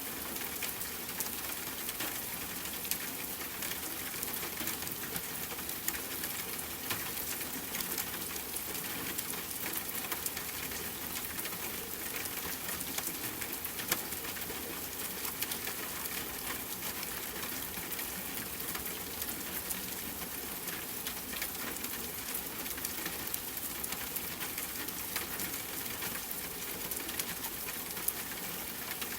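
Steady rain falling alongside a crackling campfire: an even hiss scattered with many small sharp pops.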